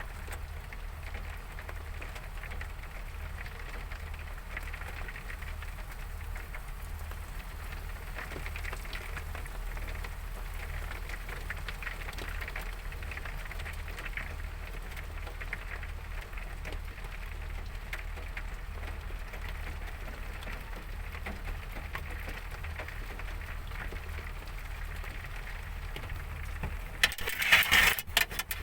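Heavy rain falling as a steady hiss, with a low steady hum beneath it. Near the end comes a short burst of clattering clicks and knocks.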